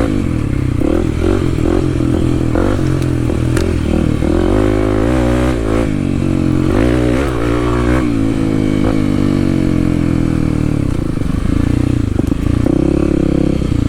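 Kawasaki KLX300's single-cylinder four-stroke engine revving up and down repeatedly as the dirt bike rides through slick mud, with some clattering knocks. Near the end it settles to a slow, pulsing idle.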